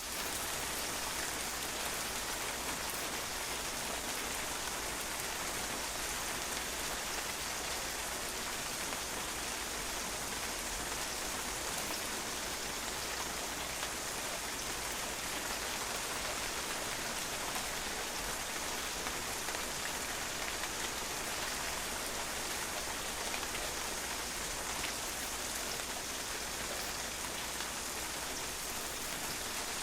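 Steady rain, its drops pattering on a patio surface in an even, unbroken hiss of many small splashes.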